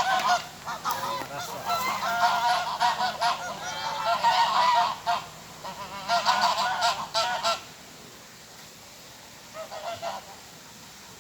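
Several swans calling back and forth with honking calls, a dense run of overlapping calls that stops about seven and a half seconds in, followed by a few fainter calls near the end.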